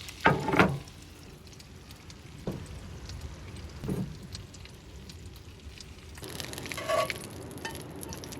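Cookware being handled: a few scattered knocks and clinks of pans and utensils, with a short ringing clink near the end.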